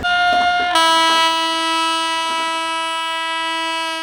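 Locomotive horn sounding: a short higher note, then a longer lower note held steady.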